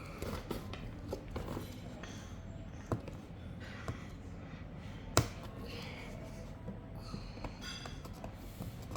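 Headphone packaging being handled and pried at while opening it: scattered taps, clicks and rustles, with one sharp click about five seconds in.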